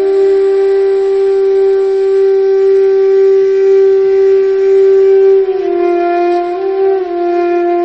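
A wind instrument playing a melody: one long held note, then about five and a half seconds in it drops to a lower note and moves between a few neighbouring notes.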